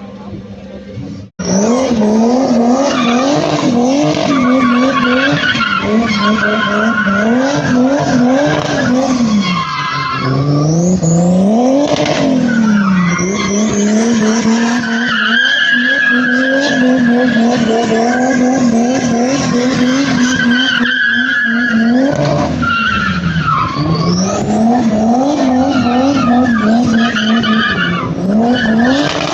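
A car drifting: its engine revving hard, the pitch swinging up and down again and again, while the tyres squeal. It starts abruptly about a second in.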